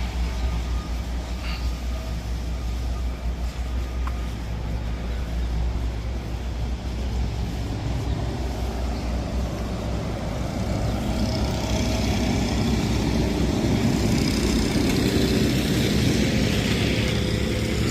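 Heavy road-paving machinery engines running steadily, the rumble growing somewhat louder and fuller over the last several seconds.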